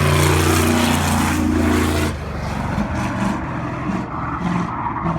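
Sprint car's V8 engine running hard on the throttle, then dropping off sharply about two seconds in to a lower, uneven running as the driver backs off.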